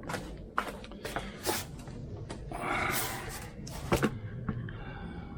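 Scattered clinks and knocks of metal parts being handled while the deck linkage of a riding lawn tractor is fitted, the sharpest about four seconds in, with a short scraping rustle just before it.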